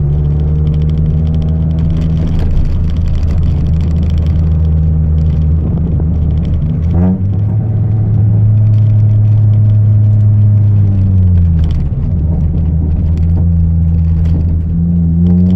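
Chevrolet Celta 1.0 four-cylinder engine, naturally aspirated, through a 4-into-1 header and a two-inch exhaust with no mufflers, running at steady revs under way. About seven seconds in the note jumps briefly and settles at a higher steady pitch, drops back lower after about eleven seconds, and starts climbing near the end.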